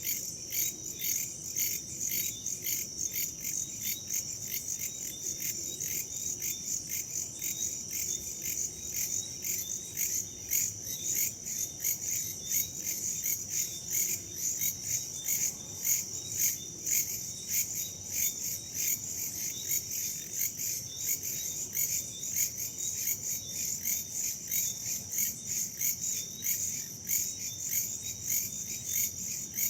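A chorus of crickets and other insects chirping steadily, high-pitched and fast-pulsing, with a soft rush of wind underneath.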